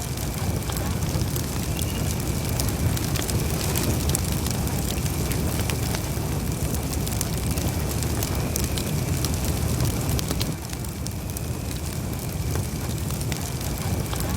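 Campfire burning: wood crackling and popping in quick irregular snaps over a steady low rumble of flames.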